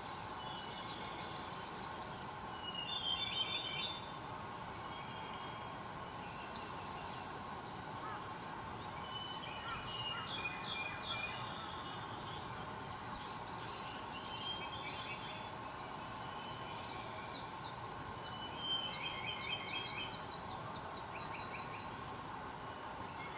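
Wild songbirds singing in short phrases of chirps and rapid trills, with a burst about three seconds in, another around ten to eleven seconds, and the loudest near nineteen seconds, over a steady background drone.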